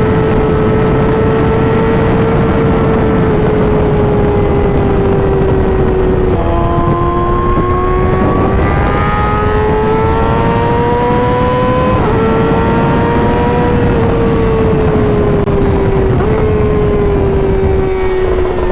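Inline-four sport bike engine running hard at highway speed under a strong rush of wind. The engine note climbs slowly and drops in steps a few times as the rider shifts gears.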